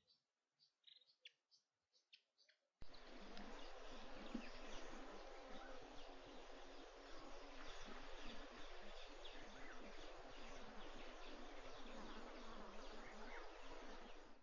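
A few short bird calls, then about three seconds in a dense, continuous chatter starts abruptly, with a low electrical hum underneath; both cut off suddenly at the end.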